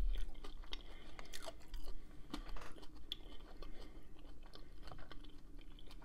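A man chewing bacon-wrapped shrimp close to the microphone, with his lips closed: soft, irregular wet mouth clicks and smacks.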